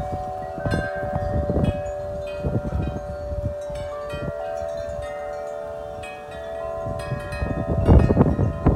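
Wind chimes ringing in gusts of wind: clusters of strikes in the first couple of seconds and again near the end, with several tones left ringing on through a calmer stretch in between, over a low rumble of wind.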